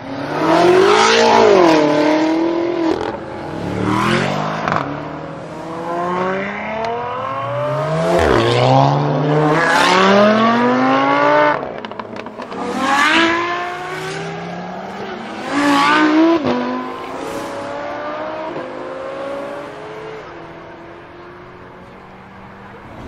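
Several performance cars accelerating hard one after another. Each engine revs up with a rising pitch that drops back at the gear changes, with one sharp crack about eight seconds in. Near the end it settles to a steadier, quieter engine note.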